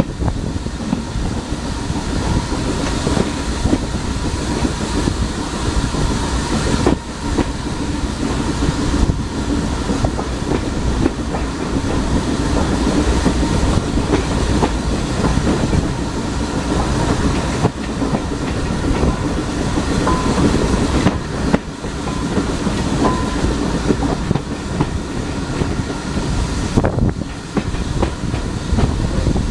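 Heritage railway train running along the line: a steady rumble of the wheels on the track with clickety-clack over the rail joints.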